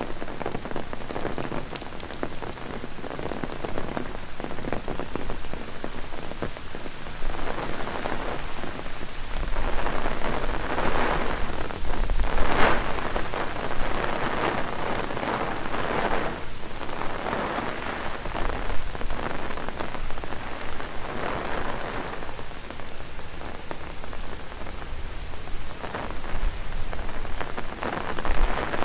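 Heavy rain falling on an umbrella held overhead, many fine drop hits over a steady hiss of rain, growing louder for several seconds around the middle.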